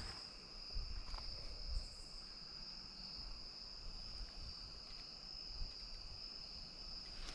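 Crickets chirring in a steady, high-pitched chorus, with a faint low rumble underneath.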